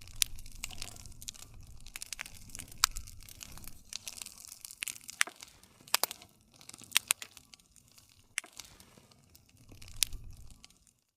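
Wood campfire crackling: a steady stream of small sharp pops with a handful of louder snaps, over a low rumble.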